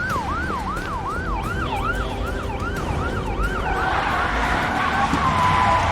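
Police car siren in a fast yelp, each cycle a quick falling sweep, about three a second. Partway through it gives way to a louder rush of noise with a steadier siren tone running under it.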